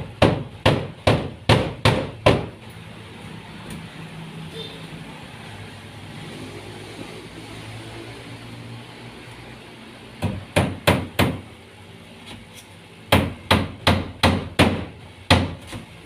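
Hammer blows from carpentry work: three runs of quick strikes, about two to three a second, with pauses between the runs.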